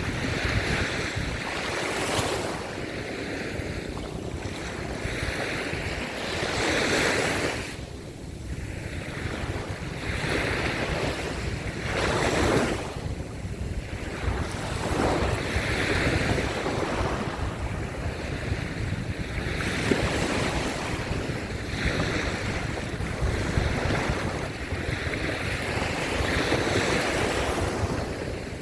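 Small surf waves washing up on a sandy beach, swelling and falling back every two to three seconds, with wind buffeting the microphone.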